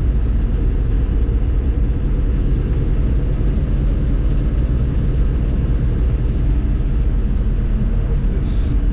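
Semi truck driving, heard from inside the cab: a steady low engine and road rumble, with a short hiss near the end.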